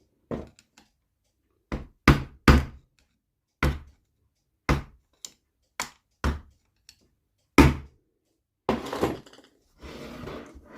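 Irregular sharp knocks of a tool tapping on the aluminium crankcase of an NSU Quickly moped engine, about nine blows a second or so apart, working the case halves loose. Near the end the knocks give way to a longer scraping, rustling sound.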